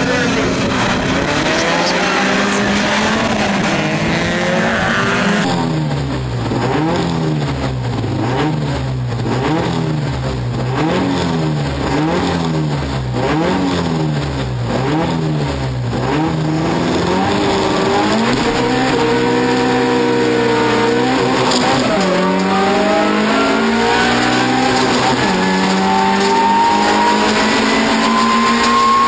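Toyota Corolla rallycross car's engine heard from inside the cabin, revved up and down about once a second while held on the start line. A little past halfway it launches and accelerates hard, revs climbing and dropping back twice at the upshifts. At first, rally cars' engines are heard running and revving on the start grid.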